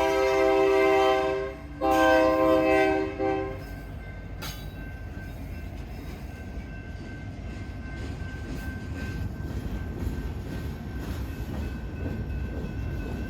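Union Pacific diesel locomotive's air horn sounding: a blast that ends about a second and a half in, then a second blast that cuts off at about three and a half seconds. After the horn, the rumble of the train grows steadily louder as it comes on.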